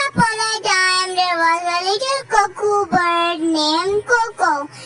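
A child's high voice singing, with long held notes.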